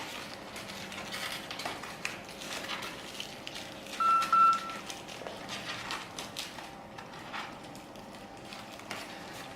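Polyethylene wrapping film being carefully peeled off a stove door, light crinkling and rustling throughout. About four seconds in, a short high-pitched squeal in two quick parts stands out as the loudest sound.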